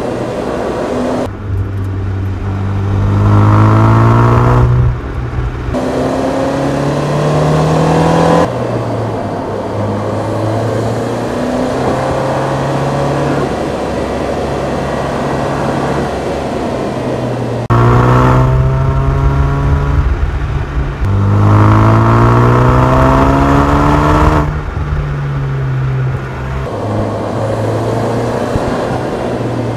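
Ford Focus RS's turbocharged four-cylinder engine accelerating hard, its note rising in pitch in several pulls, with a steadier cruising stretch in the middle. The sound jumps abruptly at several points.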